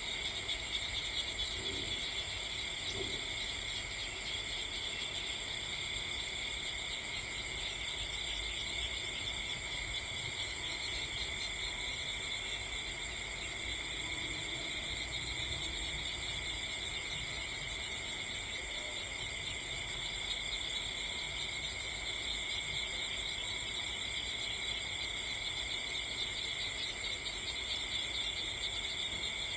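Steady chorus of crickets and other night insects: continuous shrill trilling at several pitches, over a faint low rumble.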